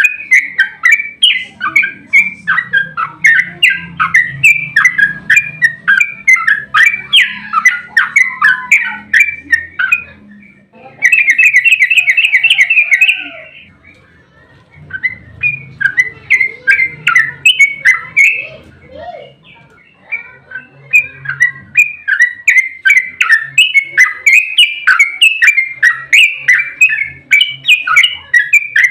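Yellow-vented bulbul (trucukan) singing a long, fast chattering song of rapid chirps, with a quick run of evenly repeated notes about eleven seconds in and a few brief pauses. A faint low hum lies underneath.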